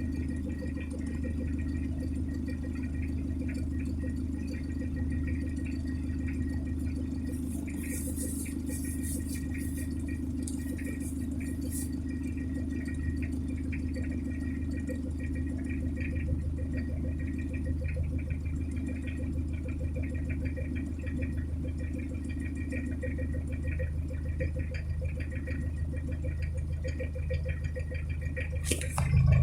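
1990 Toyota Corolla's 1C four-cylinder diesel engine idling steadily, growing suddenly louder in the last moment.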